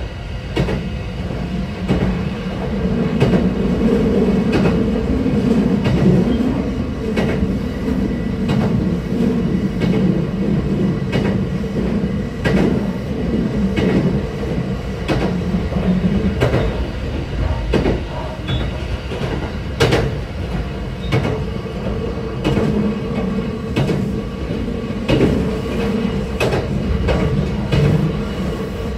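A Sanyo Line local electric train running at speed: a steady motor and gear hum, with the wheels clicking over rail joints at irregular intervals.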